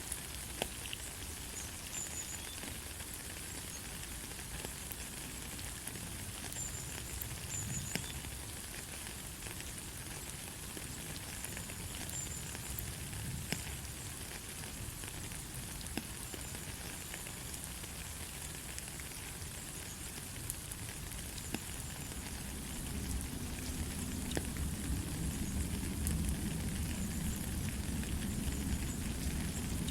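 Steady light rain: a fine, even hiss with scattered ticks of individual drops. A low rumble comes in and grows louder about two-thirds of the way through.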